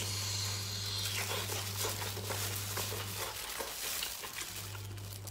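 Wet chewing and sucking mouth sounds of someone biting into braised pig large intestine, with many small, sharp wet clicks. A steady low hum sits underneath and drops out for about a second near the end.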